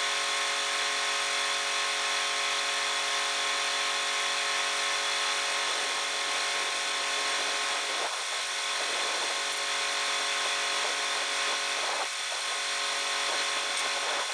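Angle grinder running steadily under load, grinding the freshly cut edge of a steel toolbar clean.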